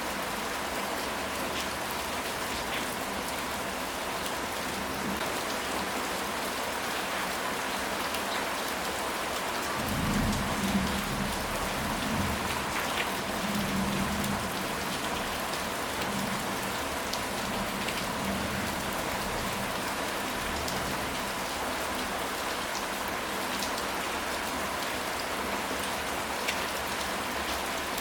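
Steady rain falling on a surface, with single drops ticking now and then. About ten seconds in, a low rumble of distant thunder swells and fades over about five seconds.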